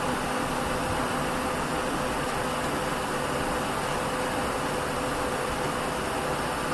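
Steady running noise heard inside a Nissan Diesel KL-UA452MAN city bus: engine and road noise with a faint steady tone, holding even without acceleration or a door opening.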